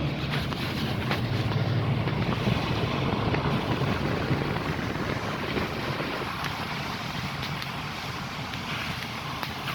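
Steady rushing noise with a low, fluctuating rumble that eases slightly after about six seconds, with a few faint ticks.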